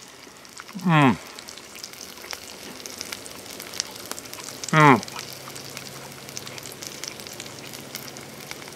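Ground-beef burger patty sizzling in its grease in a hot skillet, a steady fine crackle; the pan is still hot enough to keep it frying. A man hums a short "mmm" twice, about a second in and near five seconds in.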